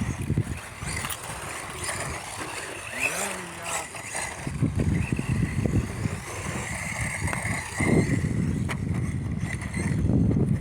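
Two small electric RC cars racing: a thin high motor whine that comes and goes as the throttle changes, over a rough rumble from the running gear.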